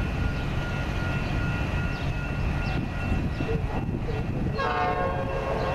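Low rumble of an approaching Metra commuter train, with a short blast of the locomotive's horn, a chord of several tones, lasting about a second near the end.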